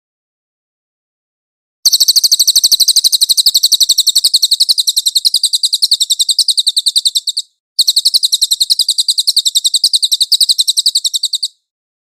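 A cililin songbird singing two long, very fast high-pitched trills of rapidly repeated notes. The first begins about two seconds in and runs for about five and a half seconds; after a short break a second trill runs for nearly four seconds.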